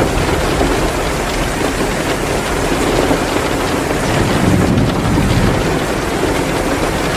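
Heavy rain pouring steadily, mixed with the crackle of a wood fire in a fireplace. A low rumble swells for about a second a little past the middle.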